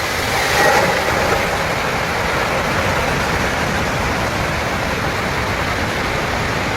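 Steady rushing roar of a landslide, a rain-soaked hillside collapsing, swelling slightly about a second in.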